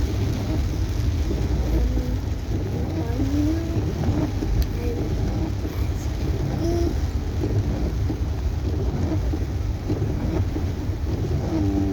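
Steady road and engine rumble heard from inside a moving car, with rain on the car's body.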